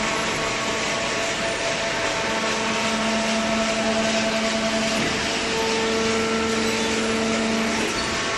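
Cardboard shredder and baler machinery running steadily: an even mechanical noise over a motor hum whose tones shift slightly now and then.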